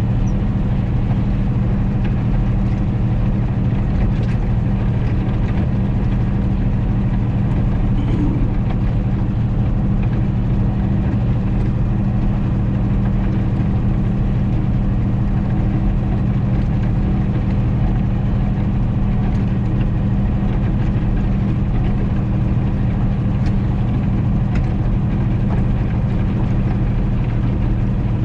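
John Deere 3140 tractor's diesel engine running steadily at an even speed.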